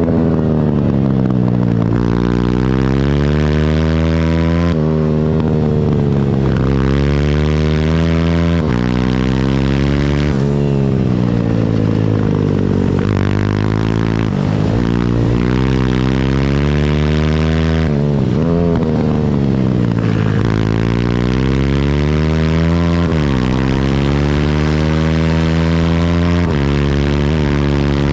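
Pit bike engine under hard throttle on track, its pitch climbing through the revs and then falling sharply each time the throttle is shut or a gear is changed, over and over.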